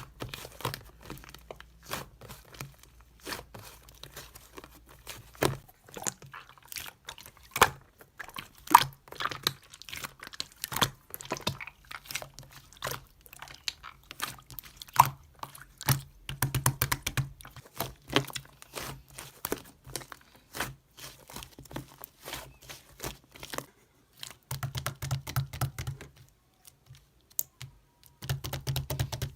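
Slime squished, pressed and stretched by hand, making a dense, irregular run of sticky pops, clicks and crackles.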